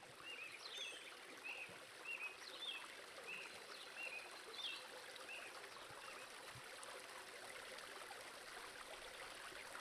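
A small bird repeats a short chirp about one to two times a second and stops about six seconds in. Under it runs a faint, steady rush of flowing creek water.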